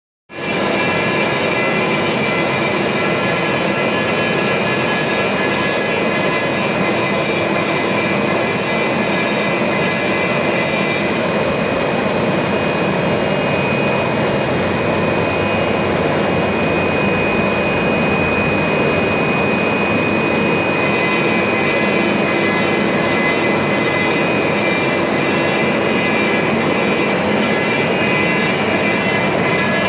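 CNC router cutting corrugated plastic sheet: a loud, steady rushing noise with a thin high whine over it that is stronger in the middle of the stretch.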